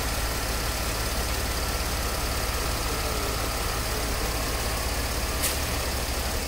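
Mercedes ML 350 CDI's V6 diesel engine idling steadily, with the newly fitted Airmatic suspension compressor running as it pumps the car up to ride height, a sign the replacement compressor works. A single click about five and a half seconds in.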